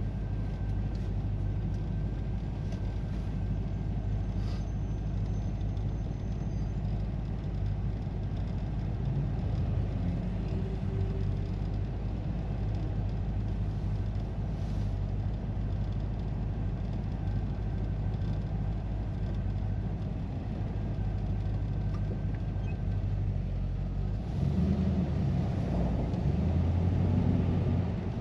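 1957 Chevy Bel Air on the road, heard from inside the cabin: steady engine and road noise. It grows louder as the engine pulls harder near the end.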